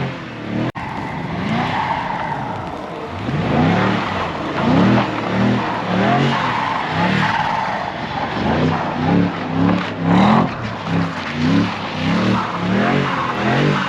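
A car engine revving up and down over and over, with the tyres spinning and sliding on snow.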